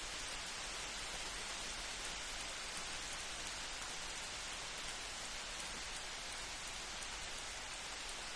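Light rain falling steadily, an even hiss with no thunder.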